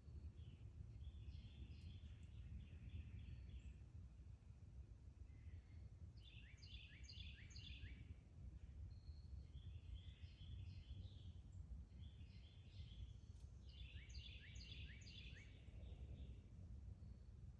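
Faint songbird singing: a phrase of quick, high, repeated notes every few seconds, over a steady low background rumble.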